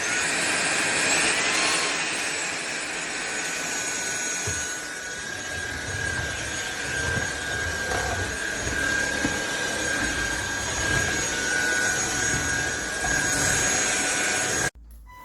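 SunSare X7A cordless stick vacuum running: a steady high motor whine over rushing air. It cuts off suddenly near the end.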